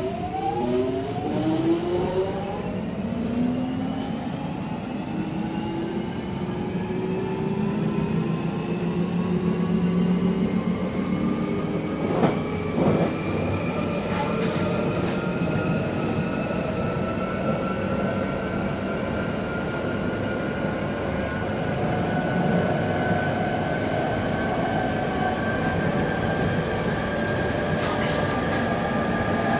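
London Underground 1996-stock Jubilee line train accelerating away from a station, heard from inside the car. The traction motors' whine, several tones together, climbs quickly for the first few seconds and then more slowly, over a steady rumble of wheels on rail. A couple of sharp knocks come about twelve seconds in.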